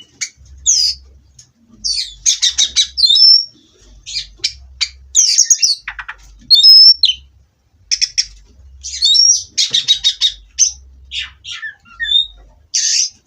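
Oriental magpie-robin (kacer) singing: a varied song of quick chirps, rapid trilled runs and short clear whistles in bursts, with brief pauses between phrases.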